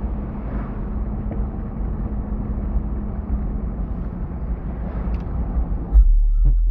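Steady low rumble of road and engine noise inside a moving truck's cabin. About six seconds in, a song's heavy subwoofer bass kicks in suddenly and loudly, with a deep booming low end.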